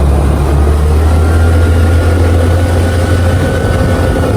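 Motorcycle engine running steadily while being ridden, with a loud, even low rumble and a faint steady whine above it.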